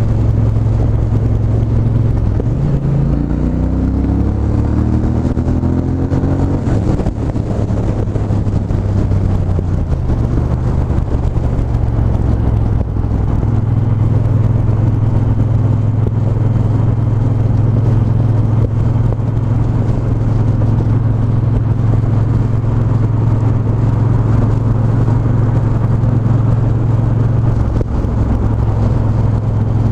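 Triumph 1200 cc parallel-twin motorcycle engine under way. Its note rises as it accelerates a couple of seconds in, falls back over the next few seconds, then holds a steady cruise with a brief dip near the end.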